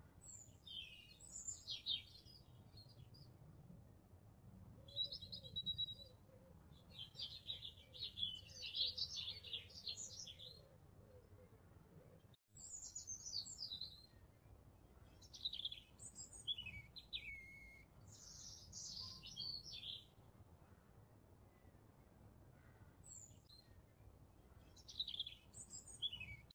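Songbirds chirping and twittering in short runs of high calls with pauses between, over a faint low hum.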